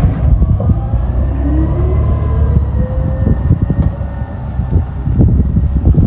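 CR&R recycling garbage truck's engine running with a heavy low rumble, a whine rising in pitch from about a second in to past the middle.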